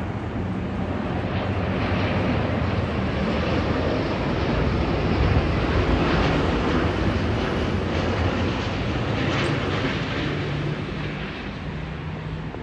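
Jet airliner on final approach passing by, a steady engine rumble that swells to its loudest about halfway through and then eases off.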